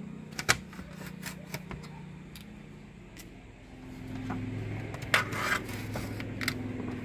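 A steady low motor hum, dropping lower and growing louder about four seconds in, with scattered sharp clicks and knocks over it.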